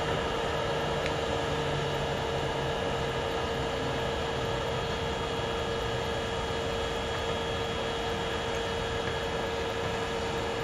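Steady electrical and mechanical hum from freight-train equipment: a constant mid-pitched tone over an even wash of noise, with no wheel clicks or rhythm.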